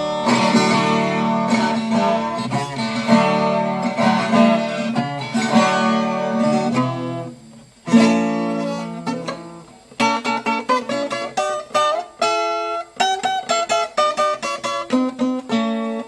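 Acoustic guitar music, plucked and strummed. It dies away about seven seconds in, one note rings out and fades, and quick picked notes follow from about ten seconds in.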